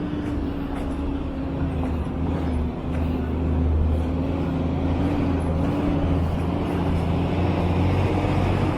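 A motor vehicle engine running steadily at low pitch, its note wavering slightly.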